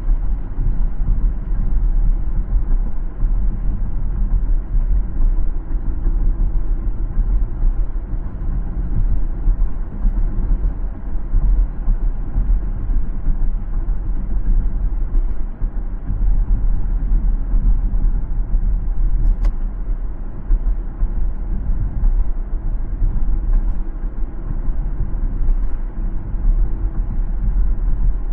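Car driving along a city road: a steady low rumble of tyre and engine noise, with one faint tick about two-thirds of the way through.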